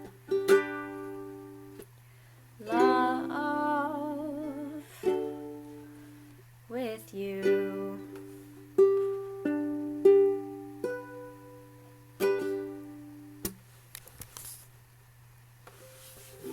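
Ukulele strummed in single ringing chords, each left to fade, as the closing of the song; a voice holds a wavering note about three seconds in. The playing stops about thirteen and a half seconds in, leaving a few small clicks over a steady low hum.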